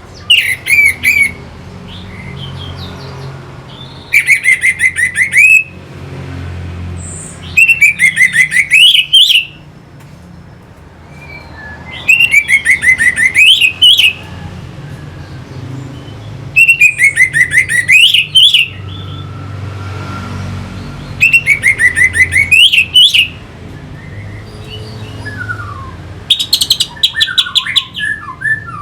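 Orange-headed thrush singing in repeated bursts: about seven fast, loud phrases of quick rising notes, one every four to five seconds, over a steady low hum.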